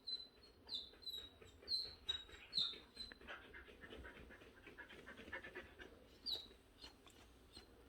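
Jindo dog whining in short, high whines, about one a second for the first few seconds and once more near the end, with soft panting between. It is fussing because it urgently needs to poop.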